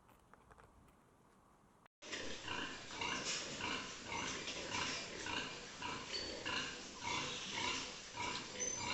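Pigs grunting, many short calls in quick succession. They start abruptly about two seconds in, after faint clicking.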